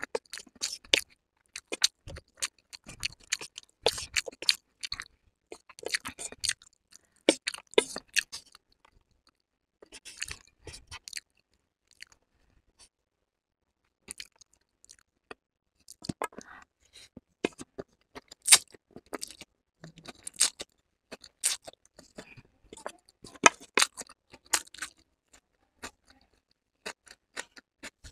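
A person chewing a mouthful of noodles close to the microphone: irregular bursts of wet, clicking mouth sounds, with a pause of about two seconds near the middle.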